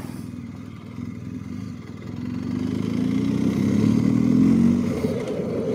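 BMW GS boxer-twin motorcycle engine running under the rider, picking up revs and getting louder as it accelerates from about two seconds in, then easing off near the end.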